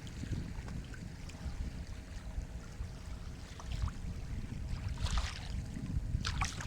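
Sea water lapping and sloshing, over a steady low rumble, with two brighter splashes near the end.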